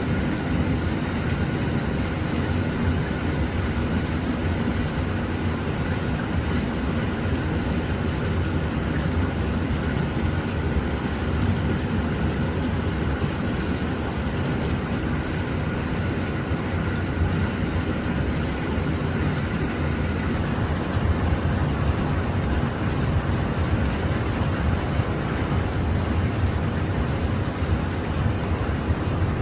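Steady low rumble with no distinct events and no changes.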